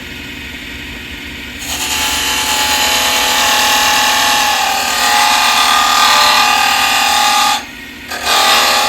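Wood lathe running with a steady motor hum. A tool works the spinning wood from about a second and a half in, giving a loud, rough cutting noise. It lifts off for a moment near the end and then goes back on.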